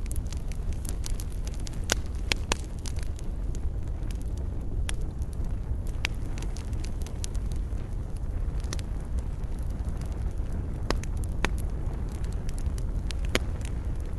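Wood campfire burning: a steady low rumble with irregular sharp crackles and pops of the burning wood.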